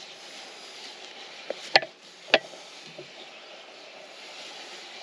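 Two sharp knocks about half a second apart, with a lighter tap just before, from handling the pot that the snake has just been coaxed into.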